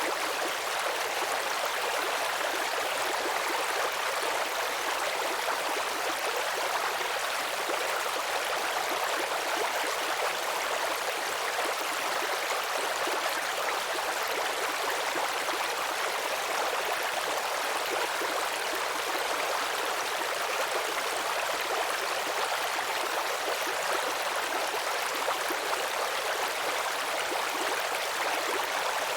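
Babbling brook: shallow stream water trickling and gurgling over stones, a steady, even rush with no breaks.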